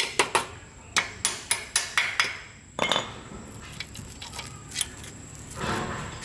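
Metal being tapped or struck by hand tools: a quick run of sharp clinks, about four a second, then one heavier knock that rings briefly, and a short scrape near the end.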